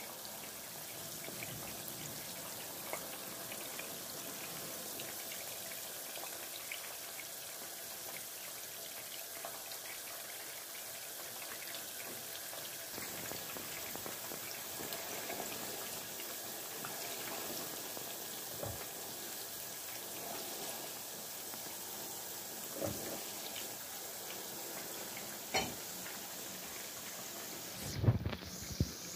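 Meatballs deep-frying in oil over low heat: a steady sizzle with scattered small pops, and a few sharper knocks near the end.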